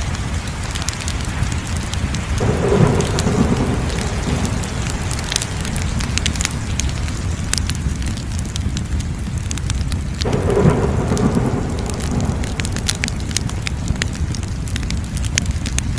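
Wood fire crackling: a steady low rumble with scattered sharp pops and snaps. Twice, about 2.5 and 10 seconds in, a louder surge comes in suddenly and lasts about a second and a half.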